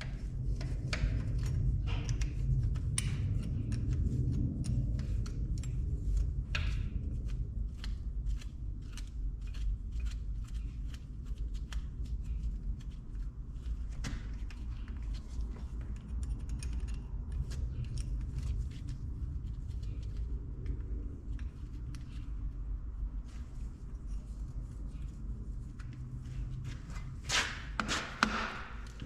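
Irregular clicks, clinks and light knocks of hand tools working on metal engine parts, over a steady low hum, with a louder cluster of knocks near the end.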